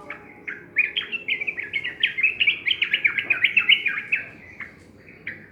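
Yellow-vented bulbul (trucukan) singing: a few short notes, then about a second in a fast, loud run of short sweeping notes that thins out near the end.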